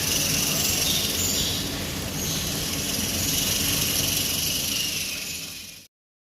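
Porcupine shaking its quills: a continuous dry rattling hiss that serves as a warning signal to threaten predators. It cuts off suddenly about six seconds in.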